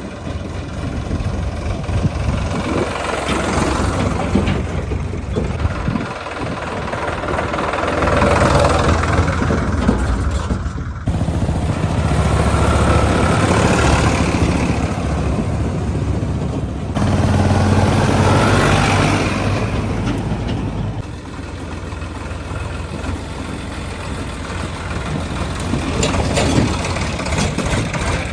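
Sonalika DI-35 tractor's diesel engine running, swelling and easing in loudness as it works, with a couple of abrupt breaks.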